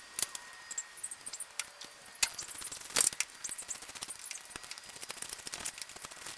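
Irregular light metallic clicks and clinks of hand tools and metal parts being handled, with a sharper knock about three seconds in.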